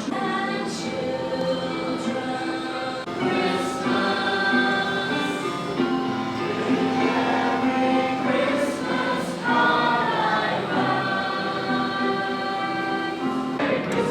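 A choir singing a Christmas song, several voices holding notes together.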